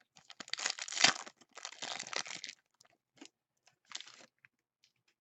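A foil trading-card pack wrapper being torn open and crinkled, a dense crackling run of about two and a half seconds followed by two short crinkles.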